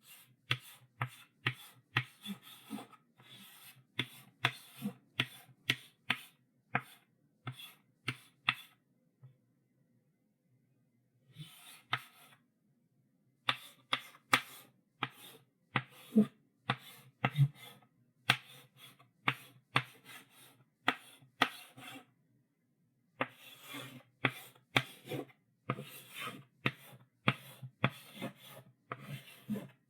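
Chalk writing on a blackboard: short scraping strokes and taps, about two a second, in runs with brief pauses between them.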